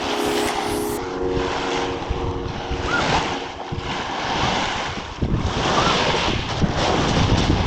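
Wind buffeting the microphone, getting louder and rougher about five seconds in, with a few steady held tones sounding under it during the first four seconds.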